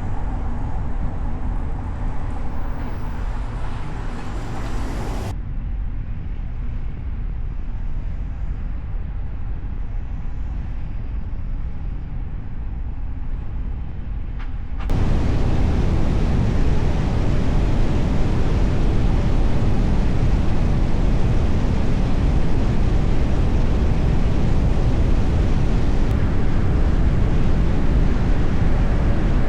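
Steady road and traffic noise of a car driving through city streets. It is muffled to a low rumble from about 5 s in, then turns abruptly louder and fuller about 15 s in.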